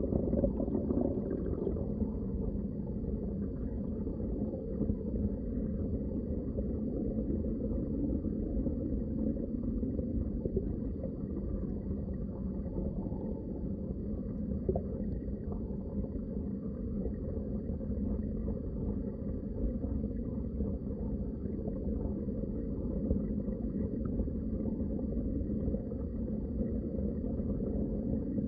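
Underwater water sound heard through a submerged microphone: a steady, muffled low rush of water with no distinct splashes.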